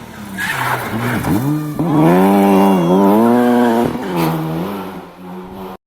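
Rally car engine under hard throttle: the revs dip about a second in, climb back to a loud, wavering high note, then drop abruptly just before four seconds in and run on at a lower, steadier pitch.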